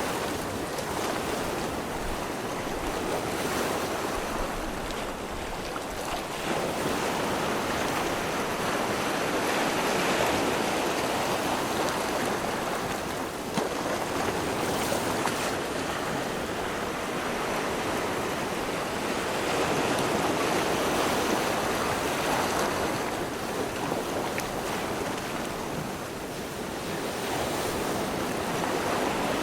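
Rushing water like surf: a steady hiss that swells and eases every few seconds.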